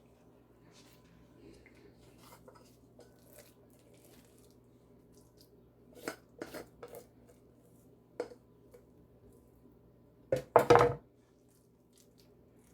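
Kitchen dishes and utensils being handled: a few light clicks and knocks, then a louder short clatter near the end, over a low steady hum.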